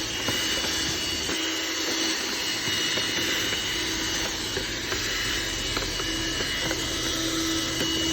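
Vacuum cleaner running steadily with a constant whine, sucking leaves, dust and sand out of a car's engine air filter housing, with a few light knocks.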